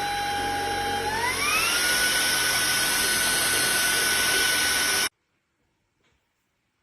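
Cordless stick vacuum's brushless motor running with a high whine over a rush of air. About a second in, the whine rises and settles at a higher pitch as the motor speeds up, and a little after five seconds it cuts off suddenly.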